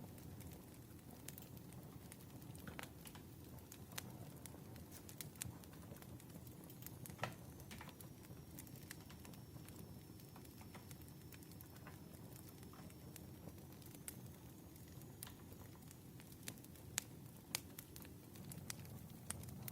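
Wood fire crackling: scattered sharp pops and snaps over a low, steady rumble of the flames, with a faint thin high whistle through the middle.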